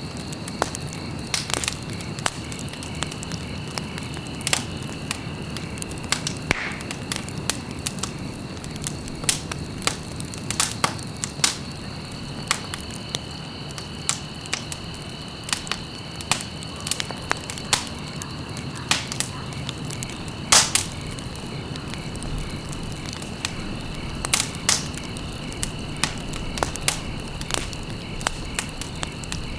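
Wood fire crackling in a fireplace: irregular sharp pops and snaps over a steady low rustle of burning, with one louder pop about two-thirds of the way through. A faint steady high whine runs underneath.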